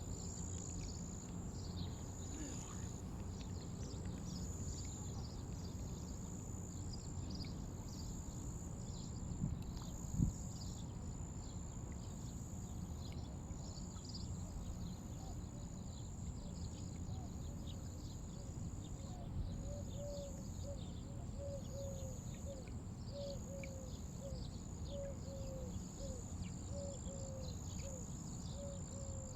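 Outdoor animal sounds: a steady high buzz with many short chirps, joined about two-thirds of the way in by a short call repeated roughly twice a second. A single sharp knock comes about a third of the way in.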